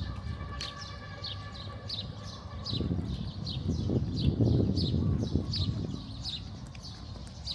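A bird repeats a short, high, falling chirp about every half second or so, over street noise; a steady tone sounds for the first few seconds, and a low traffic rumble swells and fades in the middle.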